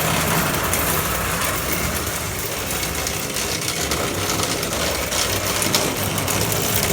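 Toy train set with a 4-4-0 General-type locomotive running steadily around its track: motor whirring and wheels rolling on the metal rails, with a low steady hum underneath.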